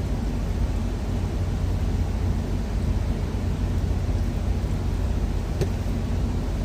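Steady low rumble of an idling truck engine, with one brief click about five and a half seconds in.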